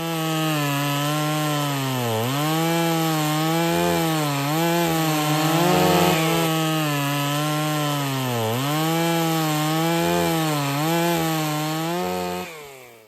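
Chainsaw running and cutting wood, its engine pitch wavering and dipping sharply twice as it bogs under load before recovering.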